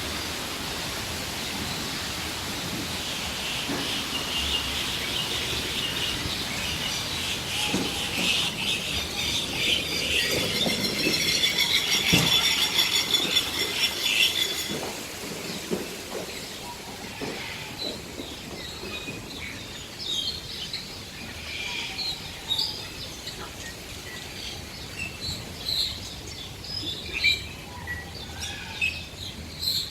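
Many birds calling at once: a dense high chatter that builds for the first half and breaks off suddenly, leaving scattered separate chirps and calls.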